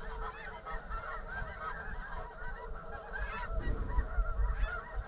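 Snow geese calling: a dense, continuous chorus of many overlapping short honks.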